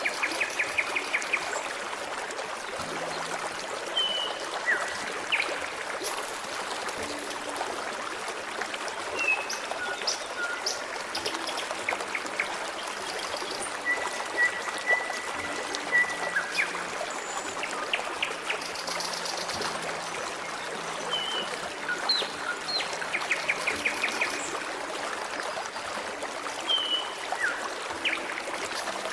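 Forest stream trickling and babbling steadily, with small birds chirping and whistling over it: short calls, trills and a held whistle about halfway through.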